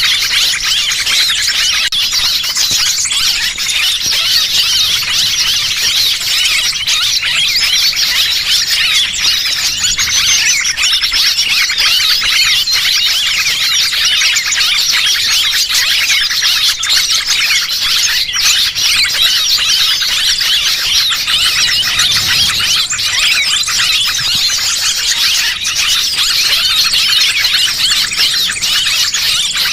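Dense chorus of many small birds chirping and squeaking in rapid, overlapping high calls without a break: a small-bird lure call (pikat burung kecil) played to draw small birds in.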